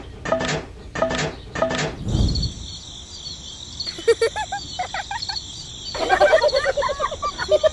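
A rhythmic repeated sound, about two a second, for the first two seconds, then a steady high insect-like drone with birds chirping over it in short flurries.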